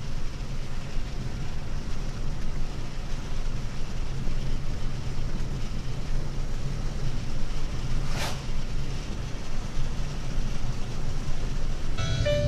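Steady low rumble of road and engine noise inside a moving car, with a brief rushing whoosh about eight seconds in.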